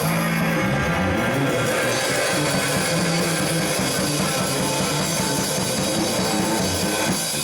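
Live rock band jamming: electric guitar, bass and drum kit playing together, loud and steady, recorded on a small pocket camera.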